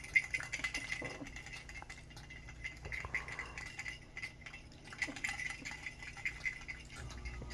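Small toy rattling and clinking in irregular light taps, with a faint steady ringing tone underneath.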